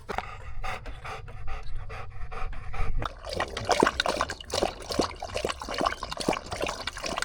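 A pitbull mix panting in quick breaths close to the microphone, stronger from about three seconds in.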